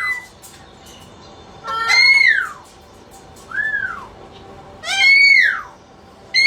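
Pet parrot calling loudly, a series of piercing calls that each rise and then fall in pitch, roughly every three seconds, with a quieter, shorter call between them.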